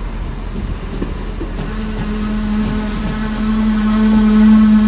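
Class 68 diesel-electric locomotive running as its train pulls in, over the low rumble of the train. A steady engine hum comes in about two seconds in and grows louder.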